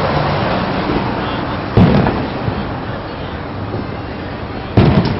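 Fireworks shells bursting overhead: two loud booms about three seconds apart, each with a short rolling echo, over a steady murmur of crowd chatter.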